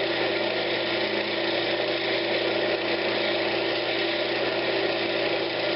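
Wood lathe running steadily, a constant motor hum with a few fixed tones and an even hiss.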